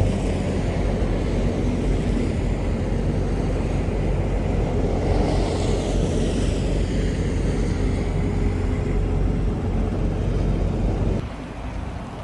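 Steady low rumble of a vehicle engine running, which drops off abruptly near the end.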